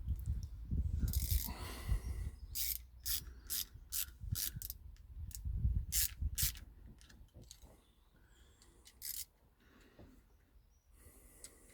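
A run of short, sharp ratcheting clicks and rasps, about a dozen over five seconds, over low handling rumble, from hand work on the wiring. After that it falls almost quiet, with one brief rustle near nine seconds.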